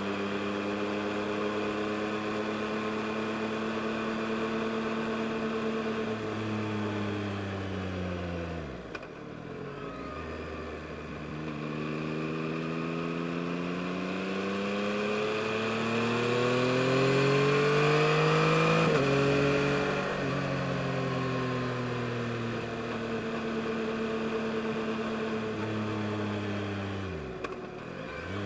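2022 Yamaha MT-09 SP's inline-three engine under way: revs hold steady, dip sharply twice, and climb for several seconds to their highest and loudest about two-thirds of the way through, then drop suddenly and fall away gradually.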